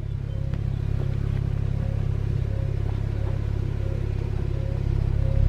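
Porsche 911 Turbo's 3.8-litre twin-turbocharged flat-six idling with a steady low rumble, with a short beep repeating about twice a second over it.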